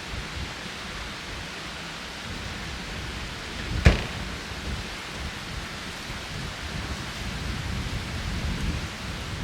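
Strong wind buffeting the microphone: a steady rush with uneven low rumbling that swells near the end, and one sharp knock about four seconds in.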